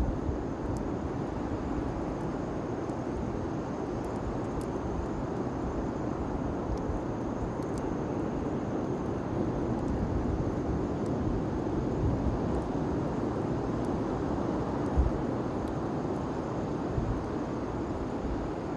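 Large bonfire burning: a steady low rushing noise with occasional faint sharp crackles.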